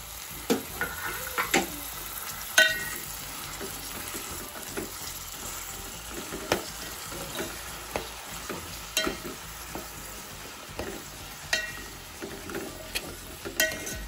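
Flat beans sizzling in hot oil in an aluminium pot as a metal spoon stirs them, with a sharp clink of the spoon against the pot now and then.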